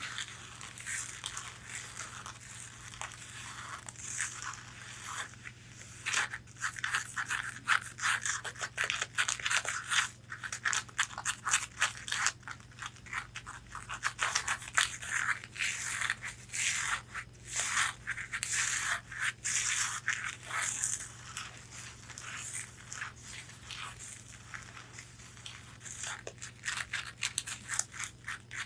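Long fingernails rapidly tapping and scratching on a corset's fabric bodice: a dense, irregular patter of sharp clicks mixed with scratchy rasping.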